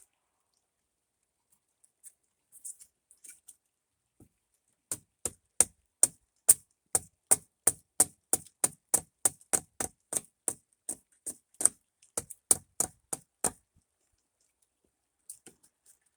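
A steady run of sharp clicks, about three a second, starting about five seconds in and stopping after some eight seconds.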